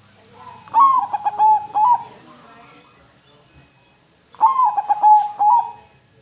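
Zebra dove (perkutut) cooing: two phrases of quick, rolling coo notes, the second coming about three and a half seconds after the first.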